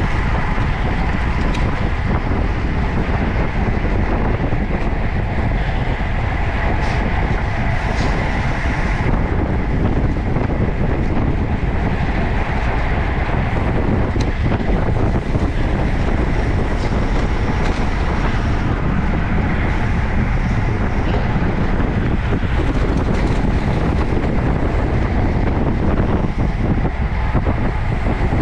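Steady wind noise buffeting a camera microphone on a moving road bicycle, mixed with the rush of tyres on the road.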